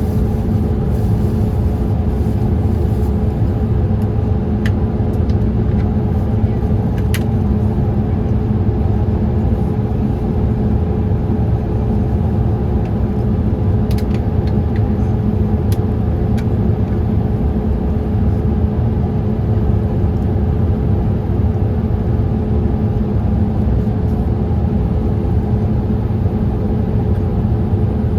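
Boeing 787-8 cabin noise in flight, heard inside the cabin: a steady, even low rumble of engines and airflow with a faint constant hum above it and a few small clicks.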